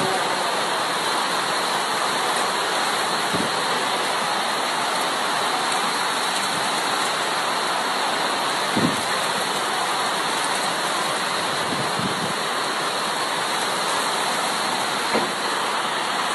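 Torrential rain pouring down in a steady, even downpour, with a few brief low thumps about a third of the way in, midway and near the end.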